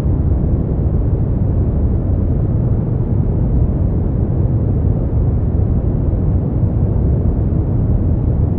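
Steady brown noise: a deep, even rumbling hiss, strongest in the bass and falling away toward the treble, with no changes or events.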